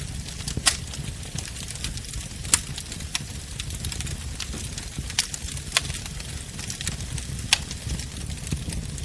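Wood bonfire burning with a low, steady rumble of flames and irregular sharp crackles and pops from the burning wood; the two loudest pops come about a second in and a couple of seconds later.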